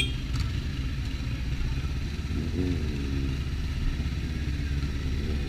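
Motorcycle engine running with a steady low rumble, with a brief rising and falling tone about halfway through.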